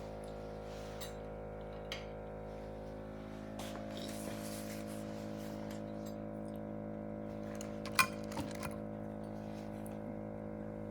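A few clinks of cutlery against dishes as food is served at the table, the loudest about eight seconds in, over a steady background hum.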